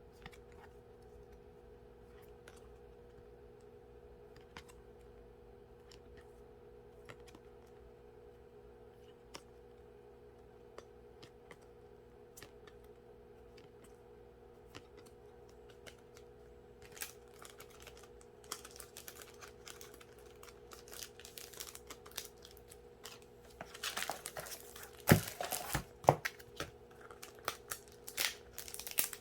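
Packaging being rustled and torn open, starting about halfway through and loudest near the end. Before it, only a quiet steady hum with scattered faint clicks.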